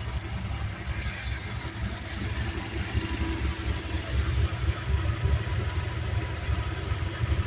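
Car engine that runs on 110-octane race fuel, running at idle: a deep rumble with an uneven, pulsing beat.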